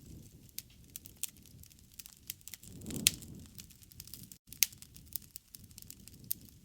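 Wood fire crackling and popping over a low rush of flame that swells about halfway through, with two sharp loud pops near the middle. The sound cuts out for a split second soon after the first of them.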